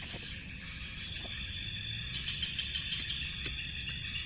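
Steady, high-pitched night-time chorus of insects in tropical rainforest, over a low background rumble, with two faint clicks about three seconds in.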